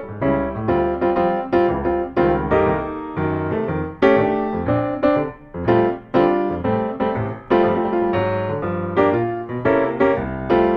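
Background music: a piano playing a brisk tune in chords, its notes struck at a steady quick pace.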